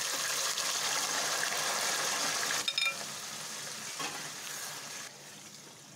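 Marinated chicken in a yogurt-and-milk mixture hitting hot oil in a kadhai on a high flame, sizzling loudly. A few light clicks come about halfway through, after which the sizzle eases off, and it drops lower again near the end.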